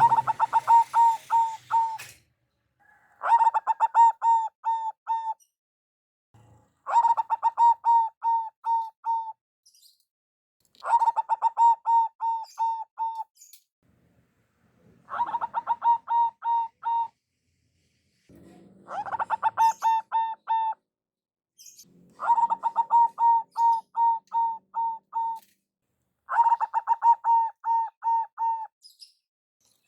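Zebra dove (perkutut) singing its cooing song: a run of quick, repeated ringing notes lasting about two seconds, repeated about every four seconds, eight times.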